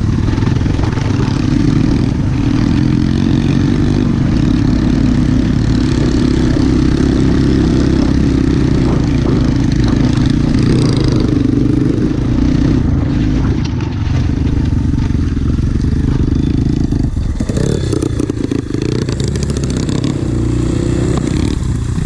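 Pit-bike engine running steadily under way while riding off-road, its note shifting about seventeen seconds in.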